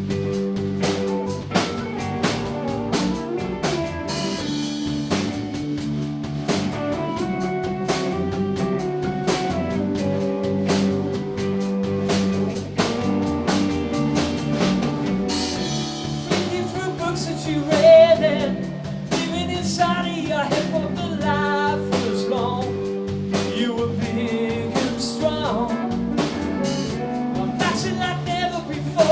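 A live rock band playing, with a drum kit, guitar and singing.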